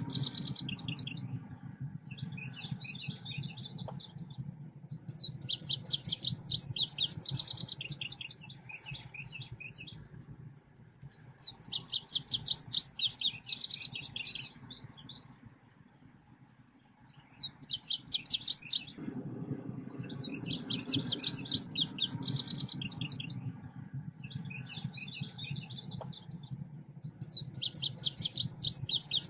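Selendang biru bird-song lure recording: phrases of rapid, high chirping a couple of seconds long, repeated after short pauses, over a low hum.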